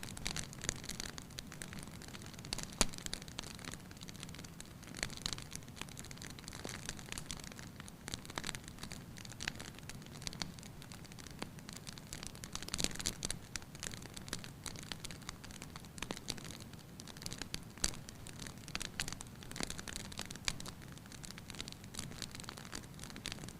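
Wood fire crackling in a fireplace: frequent irregular pops and snaps over a soft steady hiss.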